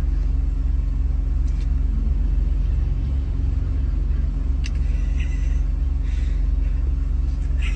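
A steady, loud low rumble with a constant hum, like a running motor, with a few faint short high squeaks or clicks, one of them near the end.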